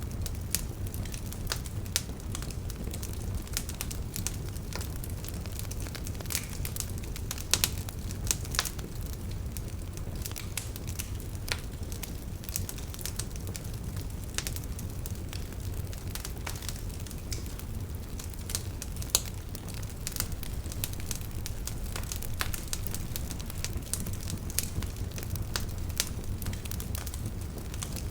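Wood campfire burning: irregular crackles and sharp pops from the logs over a steady low rumble of the flames.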